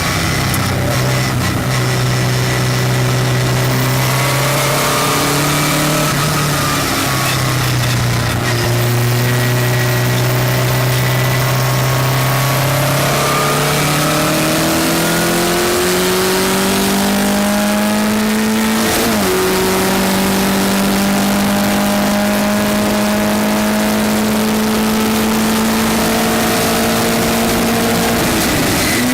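Westfield race car's engine heard on board, pulling hard at fairly steady revs with slow climbs in pitch. A gear change breaks the note about two-thirds of the way through, and another comes near the end, over steady wind and road noise.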